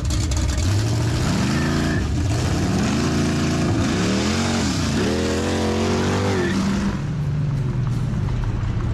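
Camaro V8 engines accelerating hard from a standstill, their pitch climbing and dropping back several times through the gear changes.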